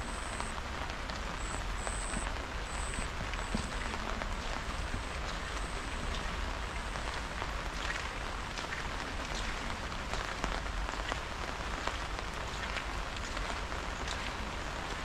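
Steady rain falling, a continuous hiss with scattered sharper drop hits.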